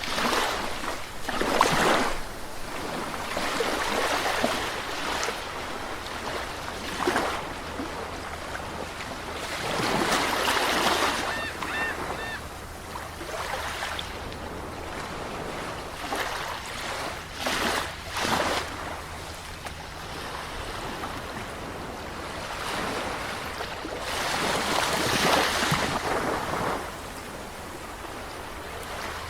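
Sea waves breaking and washing onto a shore. The wash swells into louder surges every few seconds, with a softer steady hiss between them.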